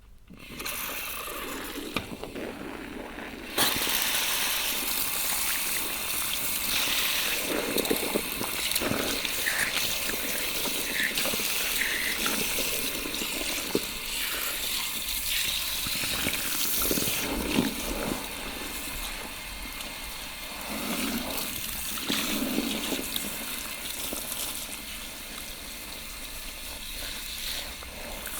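Salon shower spray running steadily over hair at a shampoo bowl, rinsing, with small splashes and sloshes. The spray comes on about half a second in and gets louder at about three and a half seconds.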